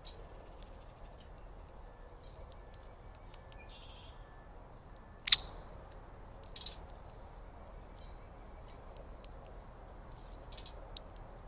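Small backyard birds giving short, scattered high chirps and chips over a steady background hiss, with one much louder sharp note about five seconds in.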